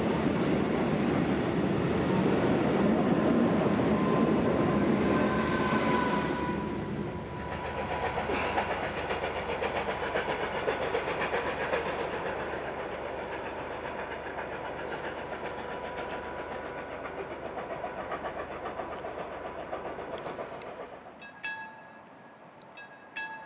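Old passenger coaches of a steam-hauled train passing close by, wheels rumbling and clattering over the rails, loud for the first several seconds and then quieter. Near the end a short chime-like ringing repeats a few times.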